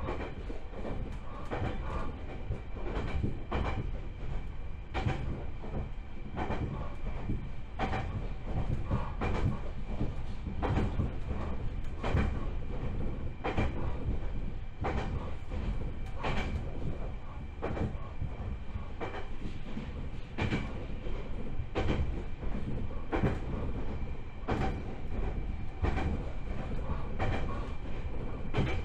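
Joshin Electric Railway 7000 series electric train running at steady speed, heard from inside the car: a constant low rumble with a clickety-clack of wheels over rail joints about every one and a half seconds.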